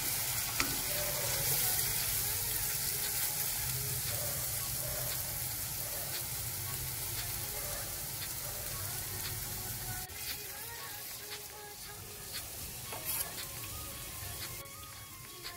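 Sliced mushrooms sizzling as they fry in a steel wok, with a metal spoon scraping and stirring them; the sizzle drops away suddenly about ten seconds in.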